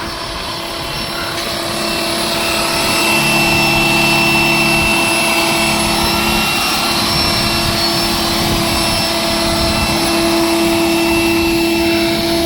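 Small motors running at a steady speed: a constant hum with a whine over it, swelling over the first two seconds and then holding.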